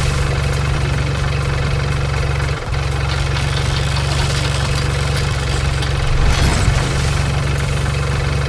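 Heavy machine engine running steadily at a low drone, with a brief break about two and a half seconds in.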